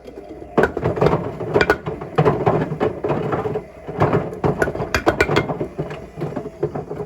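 Bricks tumbling in the drum of a Hotpoint Smart Tech WMFUG742 washing machine during the wash cycle, knocking and clattering irregularly against the drum and the glass door. The knocking gets loud about half a second in.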